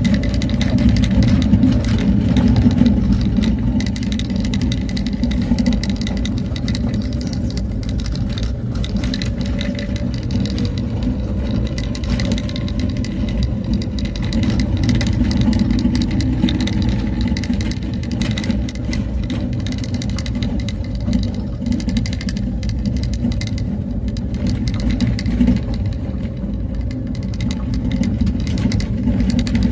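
A motor vehicle driving along a road: a steady engine and road rumble with many small rattles and knocks throughout.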